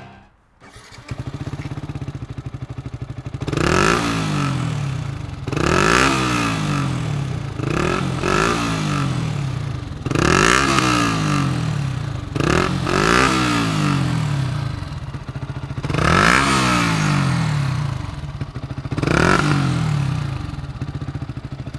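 Yamaha YZF-R125's 125 cc single-cylinder four-stroke engine through a Storm aftermarket racing exhaust. It idles from about a second in, then is revved and let fall back about seven times in a row.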